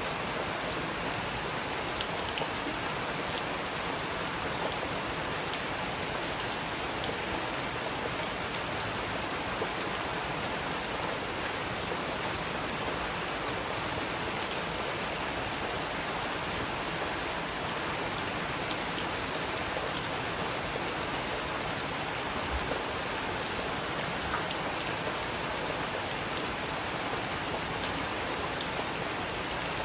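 Steady rain, an even hiss of drops, with scattered soft crackles and pops from a wood fire in a fireplace.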